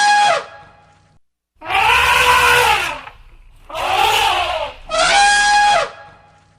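A series of recorded animal call sound effects. Two arched calls that rise and fall in pitch come between calls that hold one pitch and then drop at the end. The same pair of calls repeats.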